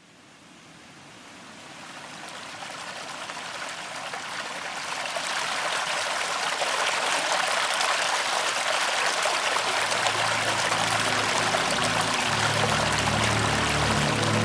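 Rushing water, like a stream, fading in from silence over the first few seconds and then steady. Low music notes come in under it near the end.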